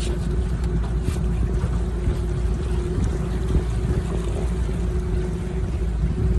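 A boat's motor running steadily: a constant low drone with a steady hum above it and no change in speed.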